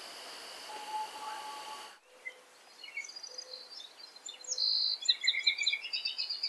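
A steady high tone over a hiss cuts off about two seconds in. Then songbirds chirp and trill, with quick runs of repeated notes that grow loudest near the end.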